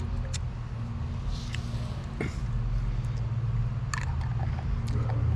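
Low, steady hum of an idling vehicle, with a few light clicks and knocks, about three across the stretch.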